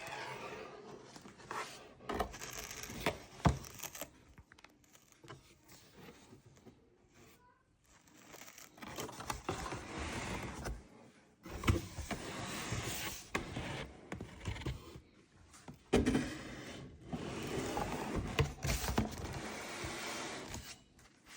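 Handling noise of a drip coffee maker and its parts: hard pieces clicking, knocking and scraping, with some rustling, in several bursts separated by short quiet gaps. The loudest is a sharp click a few seconds in.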